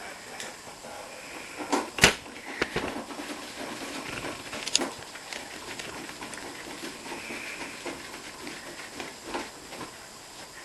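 Screws being turned into a dishwasher's sheet-metal side panel with a hand screwdriver: scattered small clicks and scraping, with a sharp knock about two seconds in and a smaller one near five seconds.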